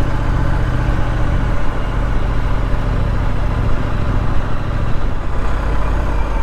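Triumph Street Scrambler Sandstorm's parallel-twin engine running steadily at low revs while riding slowly, with wind rush over the helmet. About five seconds in the engine note drops a little.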